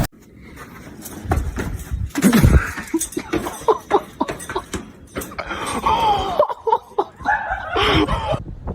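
People laughing and giggling in short bursts, with scattered clicks and knocks.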